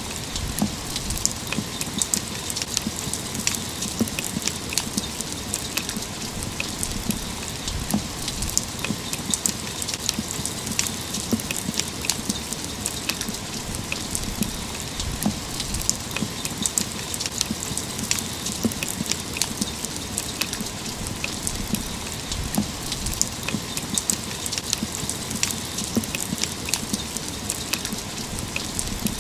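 Steady rain falling, with many close drops tapping sharply on a hard surface over a constant hiss.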